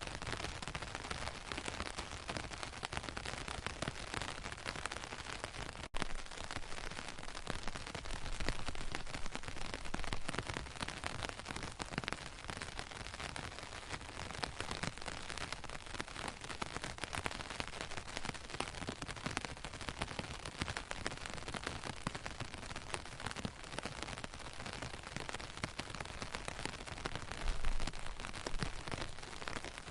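Steady rain pattering, a dense hiss of many small drop ticks, with a momentary break about six seconds in and a couple of brief low bumps, one about eight seconds in and one near the end.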